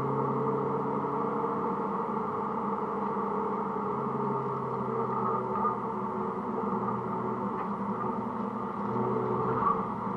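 Mini Cooper S (R53) 1.6-litre four-cylinder engine running at speed on track, with road noise. Its note eases off about three seconds in and picks up again near the end.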